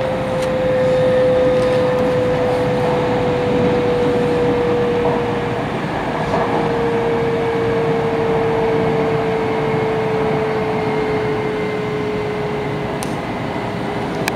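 Running noise heard inside the cabin of an N700-series 8000 Shinkansen car: a steady rush, with a single whine that slowly falls in pitch as the train slows for its arrival at a station.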